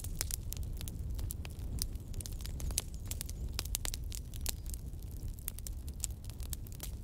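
A fire crackling: frequent irregular sharp snaps and pops over a steady low rumble.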